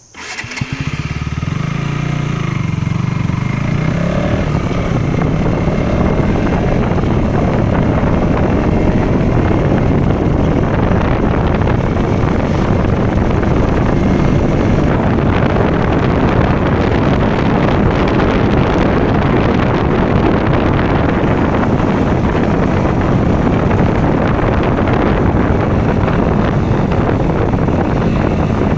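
KTM Duke motorcycle engine running while riding, cutting in suddenly, with a rise in revs a few seconds in, then a steady engine and wind rush.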